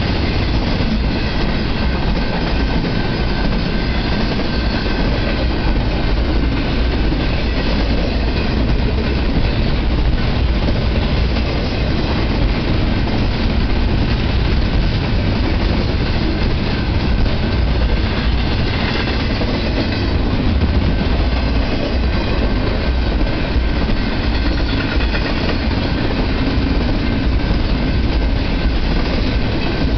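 Double-stack intermodal container train's well cars passing at speed: steel wheels running on the rails, a steady loud noise with no let-up.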